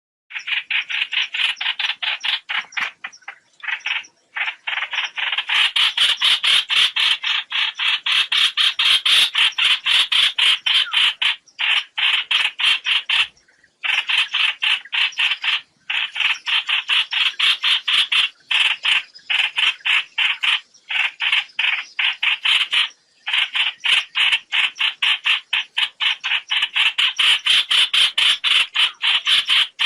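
Trao trảo bird's flock call, a rapid series of short repeated notes, about five a second, in long runs broken by brief pauses, played as a lure call for net trapping.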